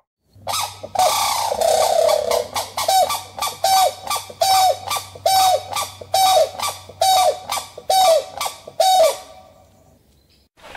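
An animal giving loud, harsh repeated calls. One longer call comes about a second in, then a string of about a dozen short calls, roughly two a second, each holding a note and dropping at the end. The calls stop about a second before the end.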